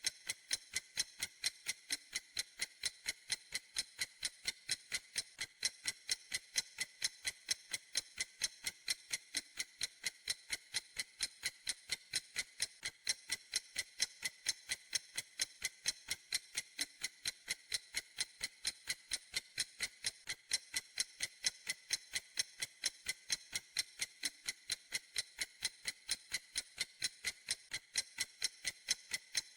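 Clock ticking, a steady, even run of sharp, high-pitched ticks.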